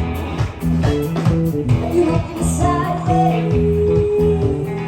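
A live band playing a song, with guitars, bass guitar and drums.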